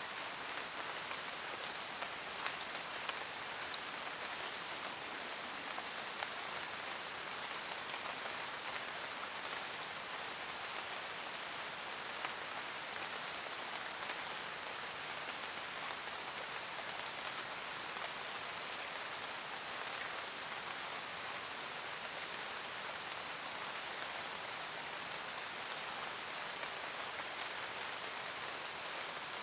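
Steady rain falling in a forest: an even hiss with scattered sharper drop ticks, a few slightly louder ones in the first several seconds.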